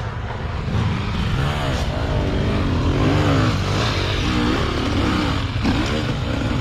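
Enduro motorcycle engine running steadily, its pitch rising and falling as the throttle is blipped.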